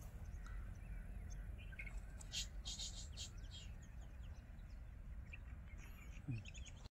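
Birds chirping faintly in short high calls, most of them in a cluster about halfway through, over a steady low rumble; the sound cuts off abruptly just before the end.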